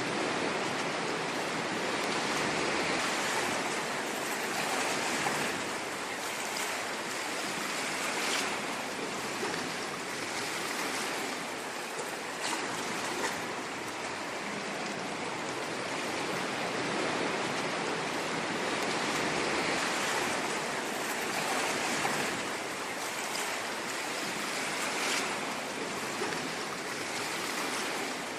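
Ocean surf: continuous wash of waves, swelling and easing every few seconds, with brief fizzy splashes.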